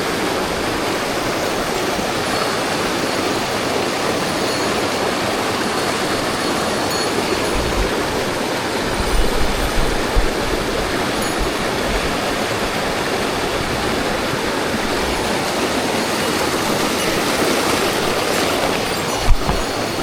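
Mountain stream water rushing steadily. A few low bumps come about halfway through, and a single sharp knock sounds near the end.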